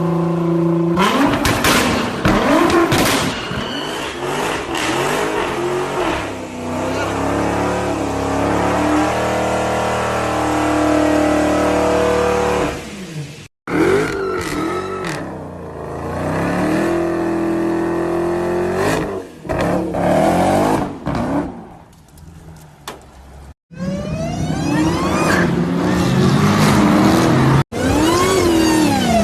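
Supercharged Dodge Challenger SRT V8s revving and accelerating in a run of short clips, the engine pitch climbing and falling with each blip and pull, and the sound cutting off abruptly between clips. Near the end a high supercharger whine rises with the revs.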